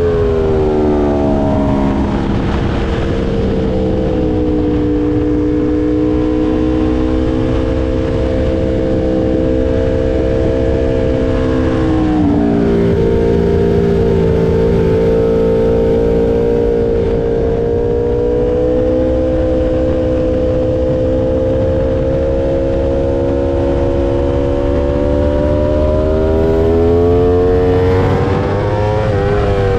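Aprilia RSV4 V4 engine through an SC Project S1 titanium exhaust, heard from on board at track speed. Its pitch falls over the first few seconds, drops sharply with a gear change about twelve seconds in, then climbs slowly under a long pull before falling again near the end.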